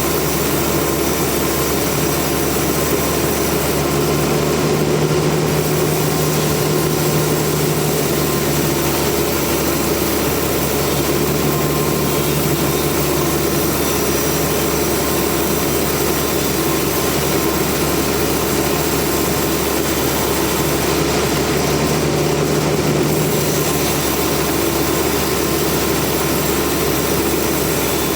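Sawmill machinery running steadily with a loud, even mechanical noise; a low hum grows a little stronger twice, about four seconds in and again about twenty seconds in.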